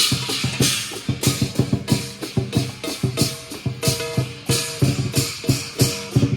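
Lion dance percussion: a large drum beaten in a fast, driving rhythm, with cymbals crashing several times a second and metal ringing over it.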